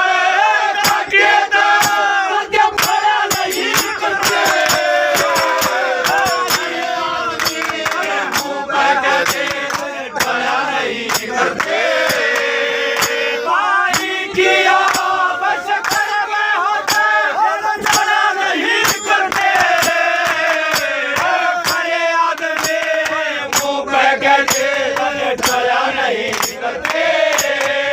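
Haryanvi ragni stage music: a held, wavering melody over rapid, continuous drum strokes.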